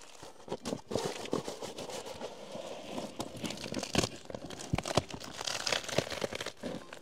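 Irregular crinkling and crackling of stiff, ice-crusted tent fabric being handled, with scattered sharp clicks.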